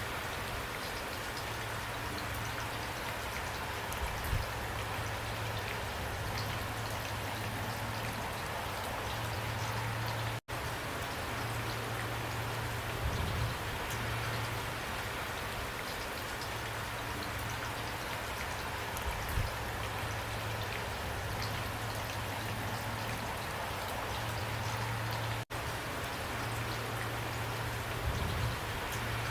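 Steady rain falling, with scattered individual drops ticking on a surface. The sound cuts out for an instant twice, about fifteen seconds apart.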